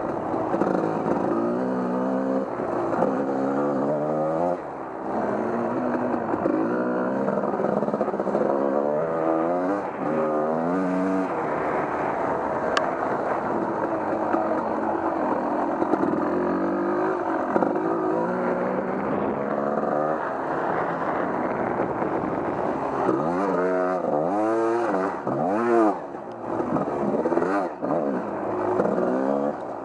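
Off-road vehicle engine running under load on a muddy trail, the revs rising and falling over and over with the throttle. Near the end come a few quick rev swoops with brief drops as the throttle is let off.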